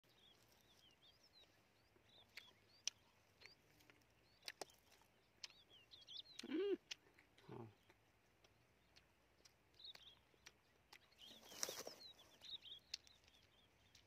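Quiet outdoor background with small birds chirping on and off, a few soft clicks, a short rising-and-falling call about six and a half seconds in, and a brief breathy rush a little before twelve seconds.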